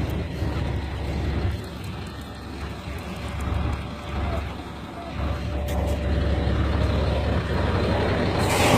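Heavy truck engine running under load during the tow of a stuck dump-truck snow plow. The rumble eases off for a few seconds and then builds again, and a brief hiss comes in near the end.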